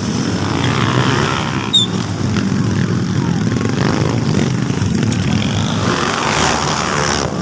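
Motocross dirt bike engines running at high revs during a race, rising and falling in pitch. There is a short sharp click a little under two seconds in.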